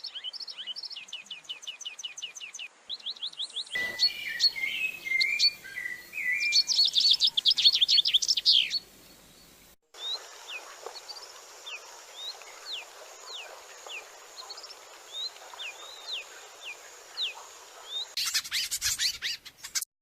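Several songbirds singing and calling, in a few separate recordings joined one after another: fast runs of repeated chirps, then scattered thin falling whistles, and a short burst of loud chirping near the end.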